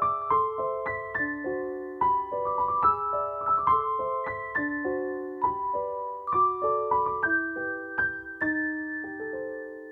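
Solo piano music: a gentle melody over chords that slows and ends on a held chord, fading out near the end.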